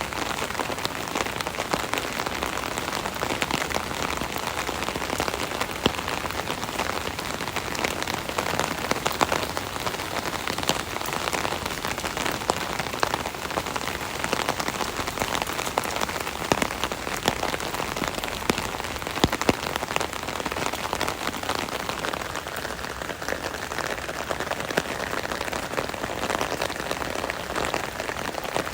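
Rain pattering on an umbrella canopy, heard from underneath: a steady dense patter with many sharper individual drop hits throughout.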